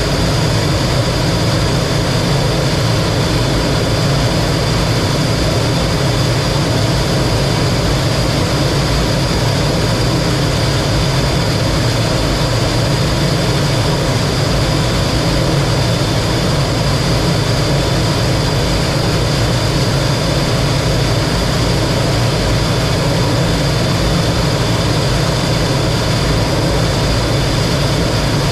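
T-33 jet trainer's turbojet engine running steadily, with a constant roar and a steady high whine, heard from inside the cockpit.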